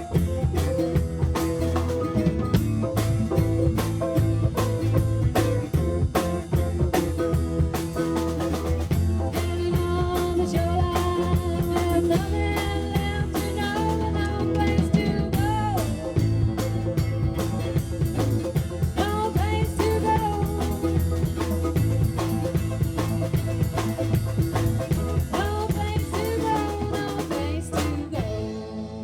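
A live band playing a song with a drum kit, bass and a singer's voice over the top; the music stops just before the end.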